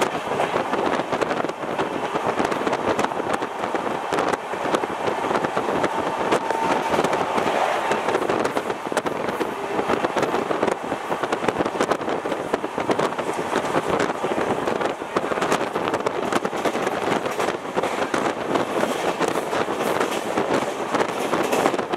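Passenger train running at speed, heard from aboard at a coach window: a steady, dense rattle and clatter of wheels on the rails, mixed with rushing wind.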